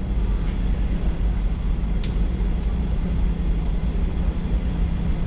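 Steady low rumble of cabin noise inside a Boeing 737-800 taxiing after landing, with a single faint click about two seconds in.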